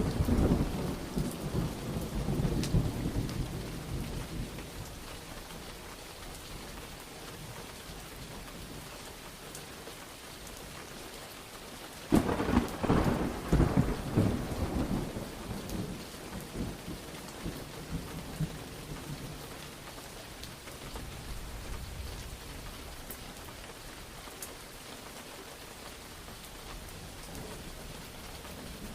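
Steady rain with thunder: a rumble dying away over the first few seconds, then a sudden sharp thunderclap about twelve seconds in that rolls on for a few seconds before the rain carries on alone.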